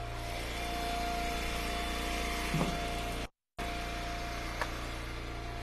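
Hydraulic wood splitter's engine running steadily. There is a short knock about two and a half seconds in, then the audio cuts out briefly, and a sharp click comes near the end.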